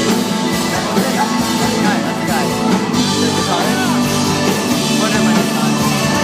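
Live rock band playing loudly, with electric guitar and a singing voice over a steady full backing.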